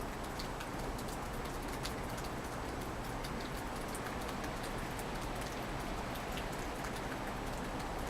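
Steady rain in a winter storm, a constant rush with many small, sharp ticks of drops striking nearby surfaces.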